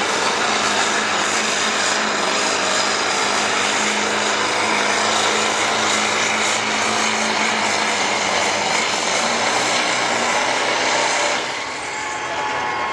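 Turbocharged diesel pickup truck engine at full throttle under heavy load, pulling the sled: a loud, steady rush with a constant low tone. The sound drops off about eleven and a half seconds in as the engine eases.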